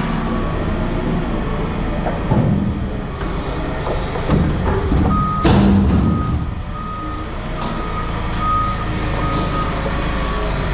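Diesel machinery running with a few loud metal clanks, then a reversing alarm starts beeping about halfway through, about one and a half beeps a second, as a heavy machine backs up.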